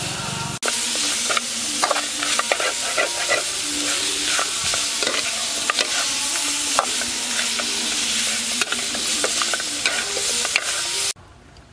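Pork rib pieces sizzling in a hot metal wok while a metal spatula stirs them, scraping and clacking against the pan many times. The sizzling stops abruptly near the end.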